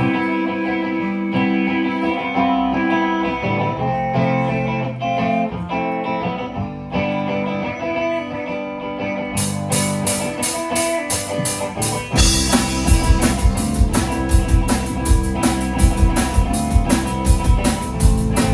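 A live rock band playing a song's instrumental intro. Guitar and bass notes ring on their own at first. About halfway through, a steady cymbal beat comes in, and the full drum kit joins a few seconds later.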